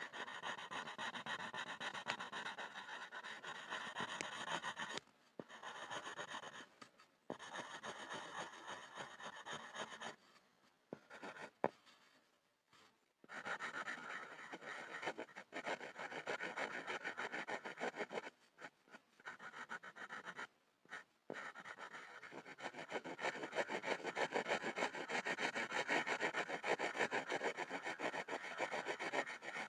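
Pencil scribbling on a wooden board: fast scratching strokes in long stretches, broken by short pauses. The longest pause comes about ten seconds in and lasts about three seconds, with a single sharp tick in it.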